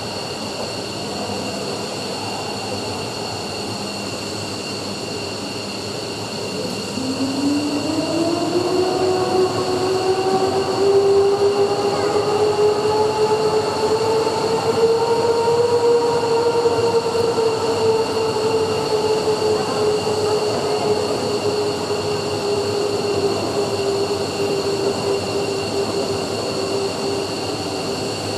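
F-15's Pratt & Whitney F100 turbofans whining during a ground engine run, with steady high-pitched tones. About seven seconds in, a lower tone rises quickly and the sound grows louder as an engine spools up, then levels off and eases slightly.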